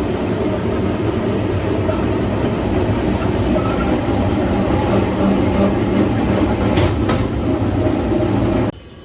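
Steel wheels of a pedal rail bike rolling along the railway track: a loud, steady rumble, with two sharp clacks about seven seconds in. It cuts off abruptly just before the end.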